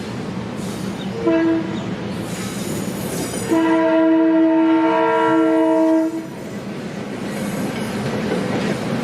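Locomotive horn sounding a short blast, then a long one of about three seconds, over the steady rumble and clatter of a train on the rails.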